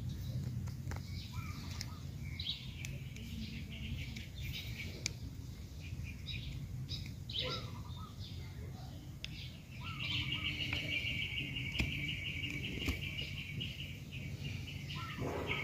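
Birds chirping with short calls, then a rapid trill held for several seconds starting about two-thirds of the way through, over a steady low hum.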